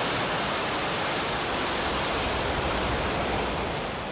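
Falcon 9's nine Merlin 1D first-stage engines at full thrust just after liftoff: a steady, dense rumble of rocket exhaust that grows slightly fainter near the end.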